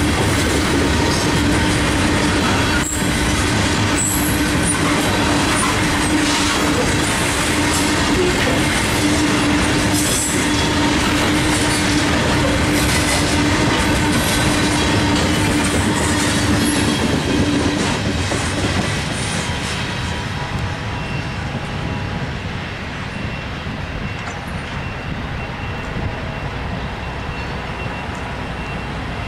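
Freight cars of a Norfolk Southern coal train rolling past close by, with wheels clacking over rail joints and a steady wheel squeal. The sound drops off about two-thirds of the way through as the last cars pass.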